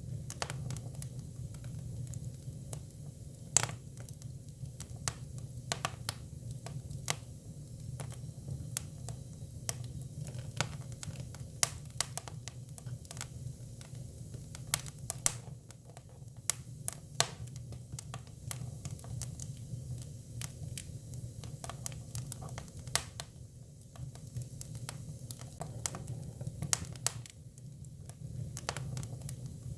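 Hinoki cypress firewood burning, crackling with sharp pops at irregular intervals over a steady low rumble.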